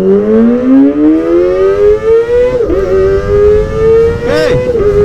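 Kawasaki ZX-25R's 250 cc inline-four with a Prospeed Shark Black aftermarket exhaust, accelerating hard under way: a rising wail. Halfway through there is a brief dip in pitch as it shifts up a gear, then it climbs again.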